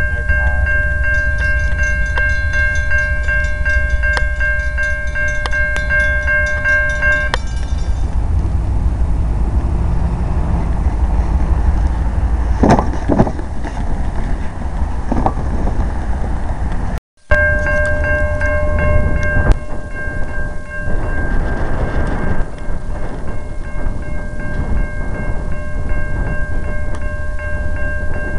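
CN freight train rumbling past, with a steady high-pitched ringing tone that stops about seven seconds in and comes back after a brief dropout near the middle. A few sharp metallic clicks sound in between.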